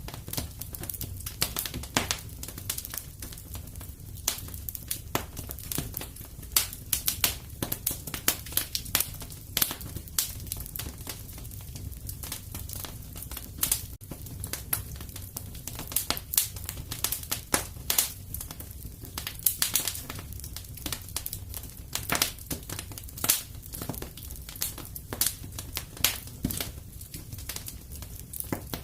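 Wood fire in a fireplace crackling, with dense, irregular sharp pops over a low steady rumble.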